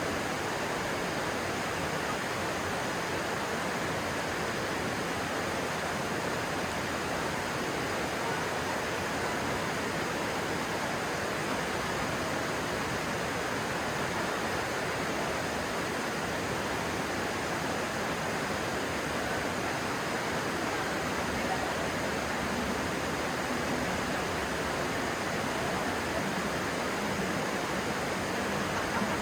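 Stream water rushing steadily, an even, unbroken hiss.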